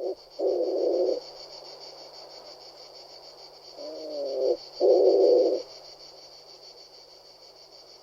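Pigeon cooing: two coos, one just after the start and one around the middle, each opening with a short wavering glide and then a louder held note. A faint steady high hiss runs underneath.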